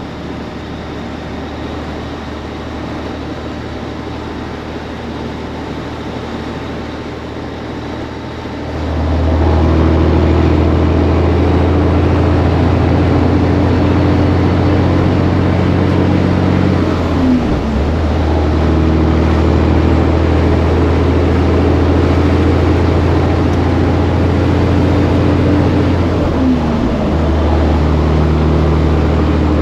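Semi truck's diesel engine running under way, steady at first, then pulling harder and louder about nine seconds in. It drops off briefly twice, about ten seconds apart, the way it does when the driver shifts gears.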